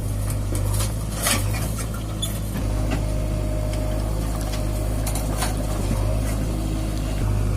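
Heavy diesel engine running steadily at low revs, with scattered short rattles and knocks.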